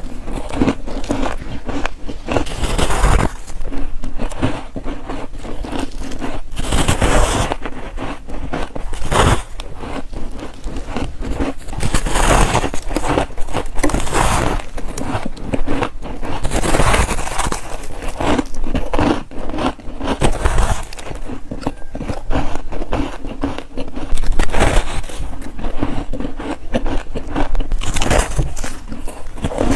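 Freezer frost bars being bitten and chewed close to the microphone: dense crackling crunches, with a louder bite every few seconds.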